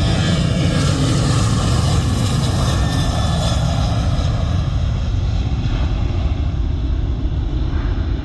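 Jet airliner engines rumbling loudly and steadily with a thin whine above. The higher hiss and whine fade over the second half while the low rumble carries on.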